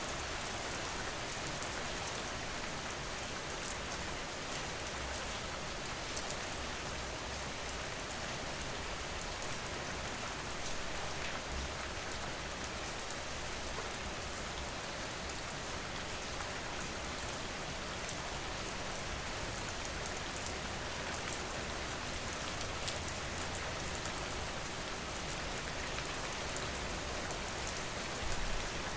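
Steady rain falling on a surface: an even hiss with fine ticks of individual drops and a faint low rumble underneath.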